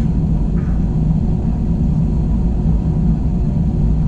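Steady in-flight cabin drone of an Airbus A321, heard from a window seat: a constant low rumble of engine and airflow noise with a steady hum.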